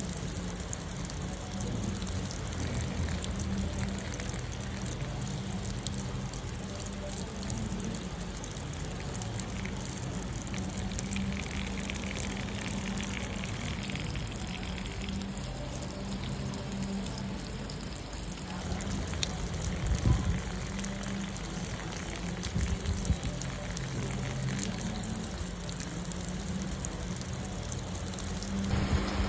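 Steady rain with water trickling and pouring, a low hum underneath. A couple of soft thumps come about two-thirds of the way through.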